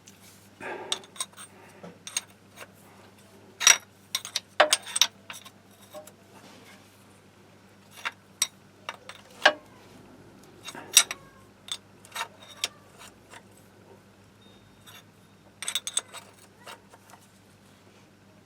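Metal tools and parts clinking and knocking as they are handled and set down, in irregular single strikes and short clusters.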